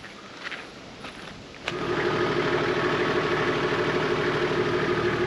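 A 4WD vehicle's engine running steadily, cutting in suddenly about a second and a half in after a few faint clicks.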